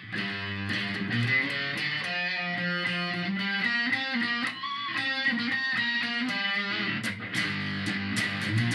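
Electric guitar played through a Korg A5 multi-effects processor with the drive gain turned to maximum, giving a distorted tone. It plays a run of single notes, then rings out a fuller strummed sound near the end.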